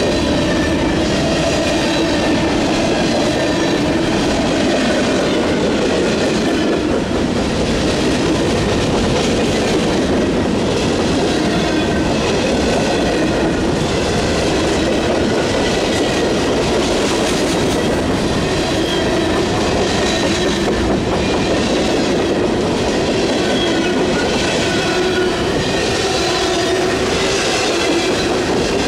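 Freight train cars, covered hoppers and tank cars, rolling past close by: a steady rumble of steel wheels on rail with a recurring clatter as the wheelsets cross the rail joints.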